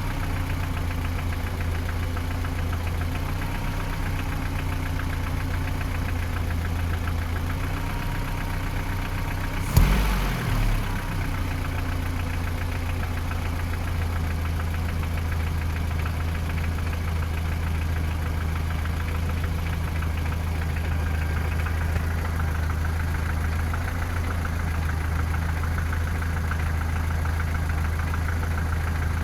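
Toyota 3S-FE inline-four engine idling with a knock, which the owner places around cylinders 3 and 4, near the camshafts or lower. The knock remains after the valve clearances, camshaft gear and camshaft bearings were checked, and the owner takes it for a known trait of the 3S family. About ten seconds in, the engine revs up briefly and drops back to idle.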